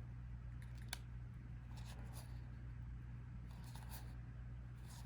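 Collectible playing cards being slid off the deck one after another, soft swishes every second or so, with one sharp click about a second in, over a steady low hum.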